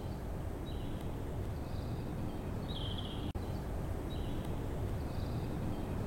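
Outdoor woodland ambience: a small bird's short high chirping phrases repeat every second or so over a steady background hiss and low rumble.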